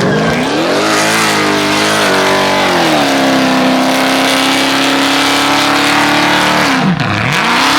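A car engine revs up hard and is held at high revs for several seconds, over a loud hiss of spinning tyres, as in a burnout or donut. Near the end the revs drop sharply and then climb again.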